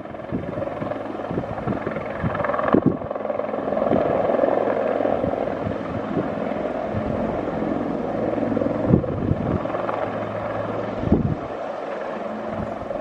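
Helicopter running steadily with a continuous turbine and rotor hum, while wind gusts buffet the microphone now and then.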